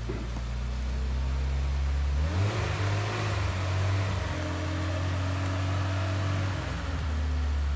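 Off-road vehicle's engine idling, then revved up about two seconds in and held at higher revs with a rushing hiss for about four seconds before dropping back to idle.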